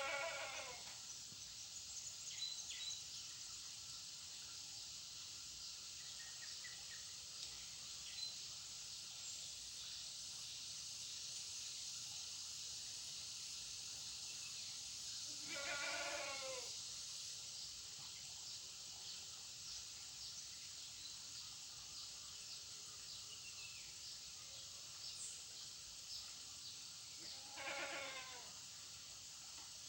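Goat bleating three times, each call about a second long, over a steady high hiss with a few faint short chirps.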